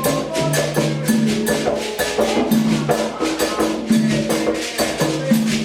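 Candomblé ritual music: fast, dense hand-drum and shaker-like percussion under a sung chant melody.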